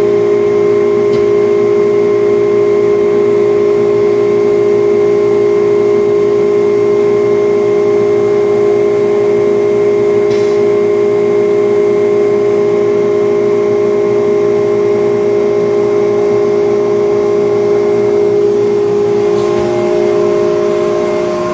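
CNC router with automatic tool changer running, giving a steady, loud whine that holds one pitch; its tone shifts slightly near the end.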